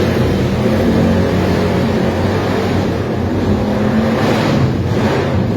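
Vintage motorcycle engines running, with a louder swell about four and a half seconds in.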